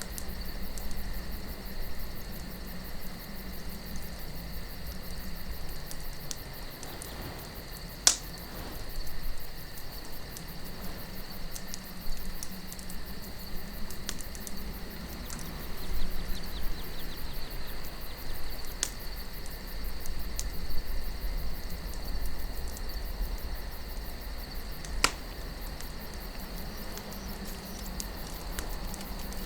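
Campfire crackling with scattered small clicks and a few sharp pops, the loudest about eight seconds in and again near the end, over a low steady wind rumble and a continuous high chirring of crickets.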